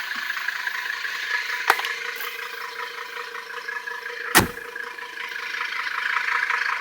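A car door clicking open about a second and a half in, then shutting with a solid thump about four and a half seconds in, over a steady background hum.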